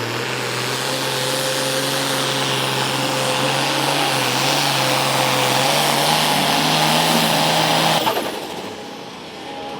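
International WD-9 pulling tractor's engine running at full throttle under load as it pulls the sled, pitch holding steady and stepping up a little about six seconds in. The engine cuts off abruptly about eight seconds in as the pass ends.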